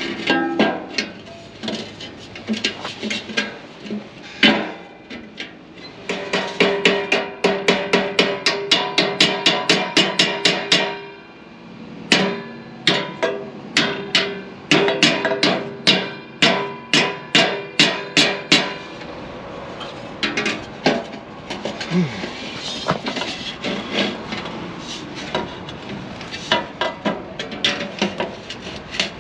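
Rapid, regular hammer strikes on metal, ringing between blows, as exhaust pipe is worked into place on a truck.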